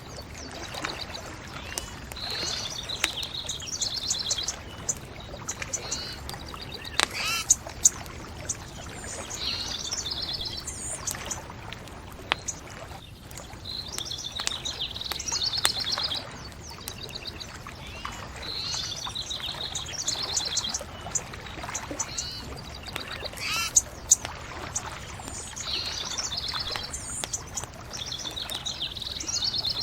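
Songbirds singing short trilled phrases that recur every few seconds, over a steady hiss, with sharp pops and crackles from a bonfire. The loudest pops come about seven seconds in and again near the end.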